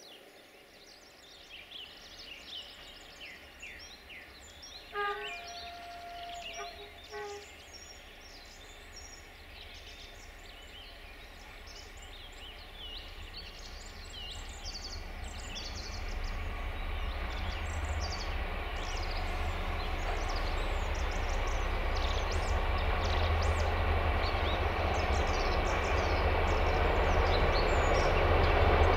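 Birds chirping, and a distant diesel train horn sounding twice about five seconds in. From about halfway on, the low rumble of an approaching diesel train grows steadily louder.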